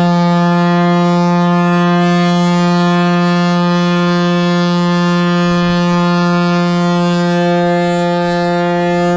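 Passenger ferry's horn sounding one long, loud blast at a steady pitch, cutting off sharply near the end; it is taken as a signal that the ferry is close to port.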